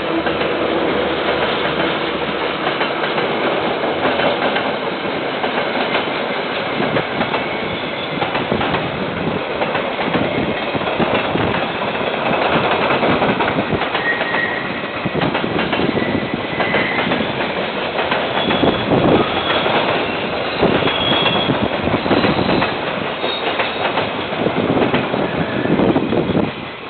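KiwiRail train rolling past, its wheels clacking steadily over the rail joints, with a few faint wheel squeals along the way. A locomotive's engine hum fades in the first couple of seconds, and the noise drops off suddenly near the end as the train clears.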